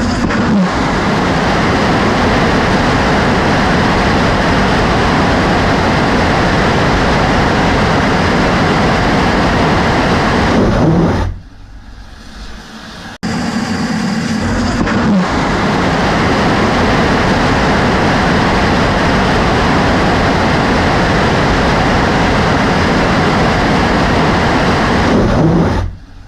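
Astra Rocket 4 first-stage rocket engine firing in a hotfire test: a loud, steady roar. It cuts off about 11 seconds in, stays much quieter for about two seconds, starts again abruptly, and cuts off once more near the end.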